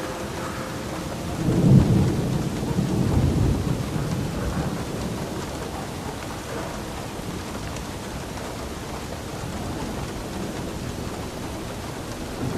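Steady rain falling, with a roll of thunder that swells about a second and a half in and rumbles off over the next few seconds.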